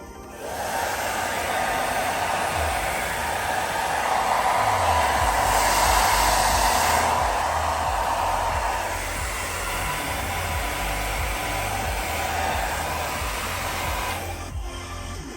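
Philips 1600 W hair dryer blowing, a steady rush of air and motor noise. It switches on about half a second in, is loudest around the middle, eases somewhat later, and cuts off near the end.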